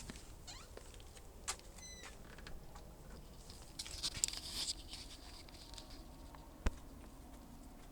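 Scattered light clicks and rustling from someone moving about and handling things, with a short high chirp about two seconds in and one sharp click near the end.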